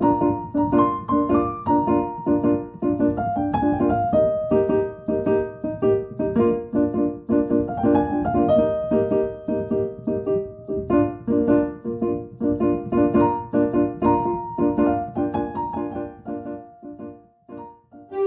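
Background piano music: a gentle melody over repeated chords, thinning out and fading near the end.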